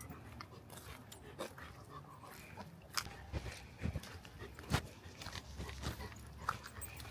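Dog sniffing and snuffling among ferns: a run of short, irregular snuffs mixed with rustling.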